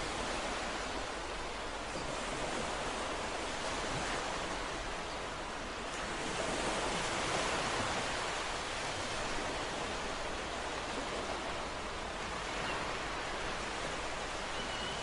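Ocean waves breaking on a shore, a steady wash of surf that swells a little louder in the middle.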